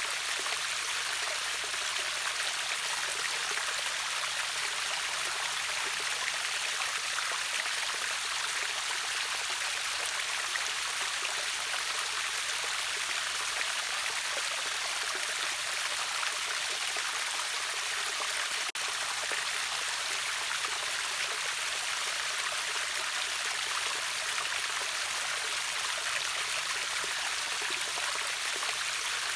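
A river waterfall's water rushing and splashing steadily. It is an even hiss with little low rumble.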